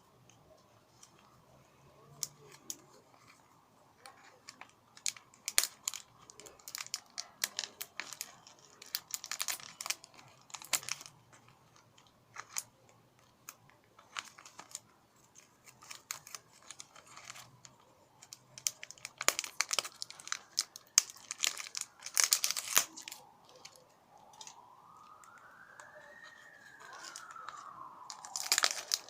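Packaging of a small perfume box being torn open and crinkled, with irregular crackles and rustles throughout. Near the end a tone rises and falls in pitch.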